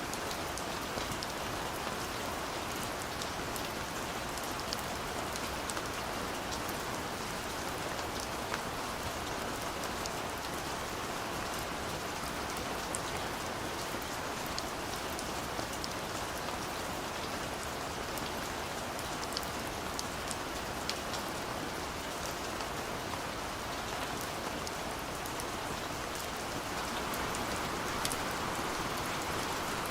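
Steady, fine, light rain falling, a dense hiss with many small, distinct drop ticks, growing a little louder near the end, with no thunder.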